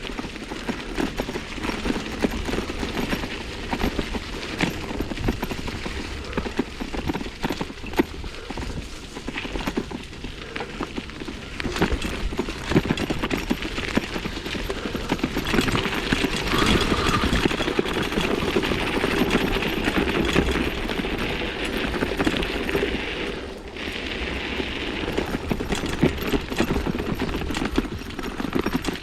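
Mountain bike (a 1987 Specialized Stumpjumper) rattling and clattering over a rough dirt trail, with dense irregular knocks from the frame and parts over a steady rush of tyre and wind noise. The hiss grows louder for several seconds in the middle.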